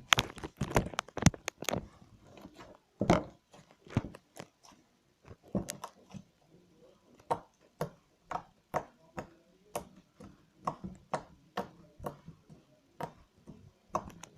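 Hands squeezing and pulling a very sticky slime, giving a string of short irregular pops and clicks as it squishes and lets go of the fingers.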